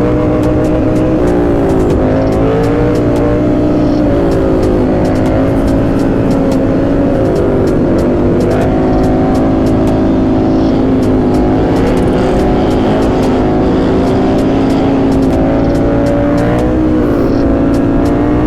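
Supermoto motorcycle engine running under way, its pitch dropping and climbing again several times as the revs change through gear shifts.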